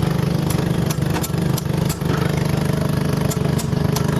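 An engine running steadily with a low hum, with several sharp knocks scattered over it.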